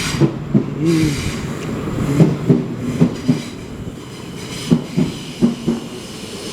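Electric multiple-unit passenger train moving slowly, its wheels clacking over rail joints in pairs of knocks as each bogie's two axles pass, over a low running rumble.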